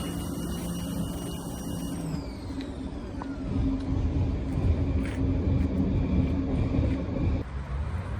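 Mitsubishi Canter's 4.2 L four-cylinder diesel engine running. Its steady note drops about two seconds in, then it runs louder and rougher for several seconds before settling to a steady low hum near the end.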